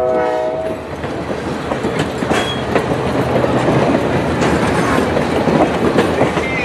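Passenger cars of a diesel-hauled excursion train rolling past, wheels clacking over rail joints, with a short high wheel squeal about two seconds in. A multi-note locomotive horn cuts off in the first second.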